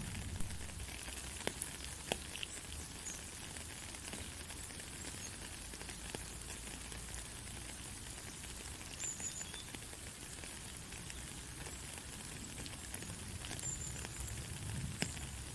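Steady heavy rain hissing, with scattered sharp drop clicks. A low rumble swells around the start and again near the end.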